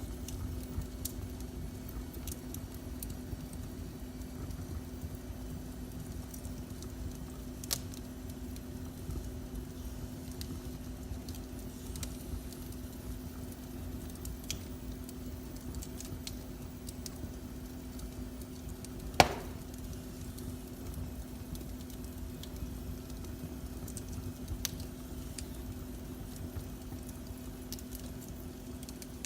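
Fire burning in a fireplace, crackling, with scattered small pops and one loud sharp pop about two-thirds of the way through. A steady low hum runs underneath.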